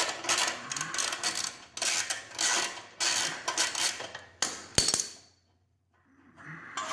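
Ratchet wrench clicking in quick back-and-forth strokes, about three or four a second, as a 12 mm exhaust bolt is backed out, stopping about four seconds in. About five seconds in comes a single sharp metallic clink with a short ring.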